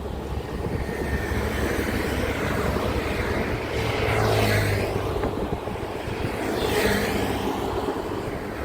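Heavy road traffic: truck engines running with tyre noise, as vehicles pass close by about four and seven seconds in, each rising and then falling away.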